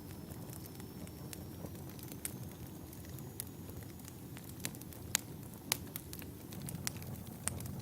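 Wood fire in a fireplace crackling: irregular sharp pops and snaps, the loudest a little past the middle, over a low steady rumble of the burning logs.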